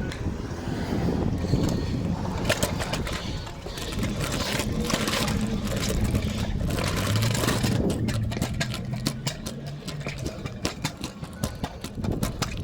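Ice cream truck's engine running close by, its pitch rising briefly about seven seconds in, with a run of sharp clicks and crackles in the second half.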